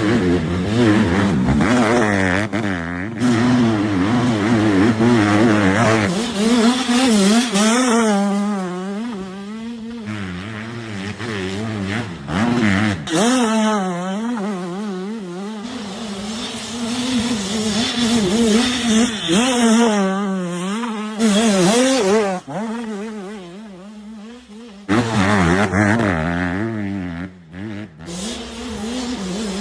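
Honda CRF150R four-stroke single-cylinder dirt bike engine being ridden hard, revving up and down repeatedly as the throttle is worked, with a few abrupt jumps in the sound.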